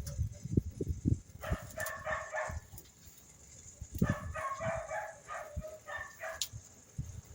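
An animal calling in two bouts of quick repeated pitched notes, with scattered low knocks in between.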